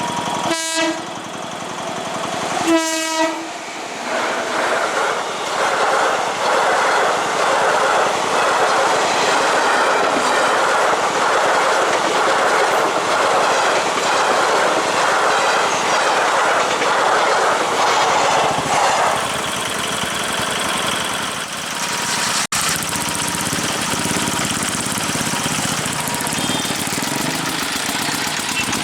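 WAP-5 electric locomotive sounding two short horn blasts. Then an express train's coaches pass close by, their wheels clicking rhythmically over the rail joints for about fifteen seconds, before easing to a steadier rushing noise.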